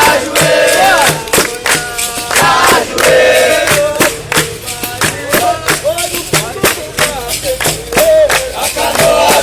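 Capoeira roda music: percussion keeps a steady beat of about three strikes a second under the low twang of berimbaus, while a group sings and chants.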